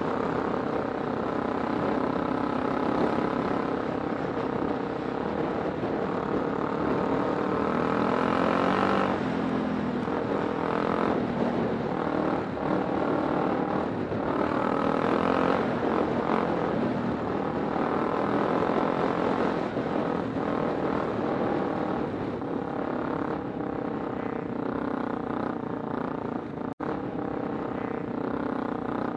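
Kawasaki Super Sherpa's single-cylinder four-stroke engine running while riding, its pitch rising and falling as the throttle opens and closes. The sound drops out for an instant near the end.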